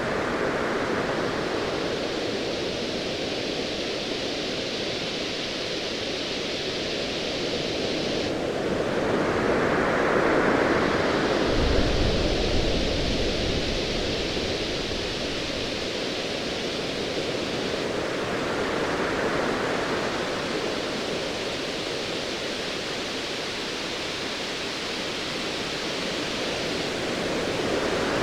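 Ocean waves surging and washing in, in slow swells about every nine seconds. About twelve seconds in comes a low rumble of distant thunder lasting a few seconds, over a hiss that drops out and returns.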